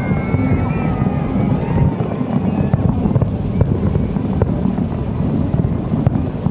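Distant fireworks rumbling and crackling over a steady low wind buffet on the microphone, with a thin wavering whistle during the first couple of seconds.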